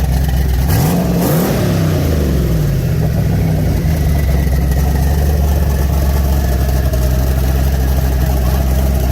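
Twin-turbocharged 6.0 L LQ4 V8 with a stage 3 cam, in a 1983 Chevrolet Impala, idling. About a second in it is blipped once: the revs climb quickly and settle back to idle over the next two seconds, with a short hiss near the top of the rev.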